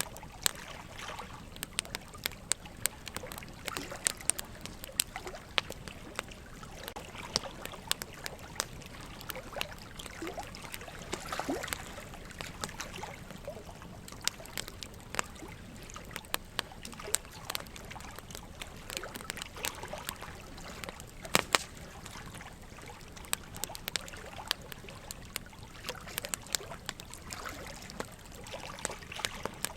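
Wood fire crackling, with frequent sharp pops of burning logs and a pair of louder pops about two-thirds of the way through, over a steady trickle of running water.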